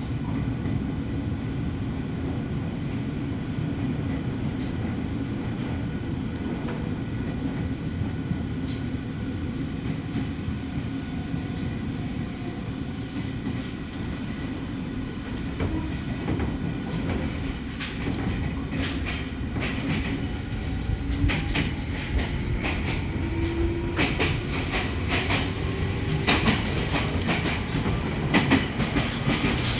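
Ohmi Railway electric train running along the track with a steady low rumble. In the second half its wheels clack over rail joints, louder and more often, under a faint rising whine.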